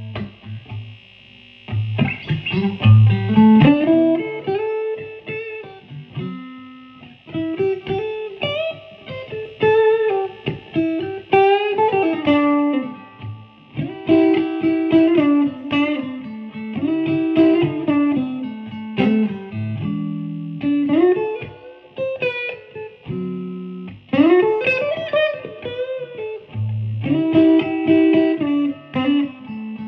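Electric guitar played through a 100-watt single-channel Dumble-style amplifier: phrases of single notes and chords, with several string bends.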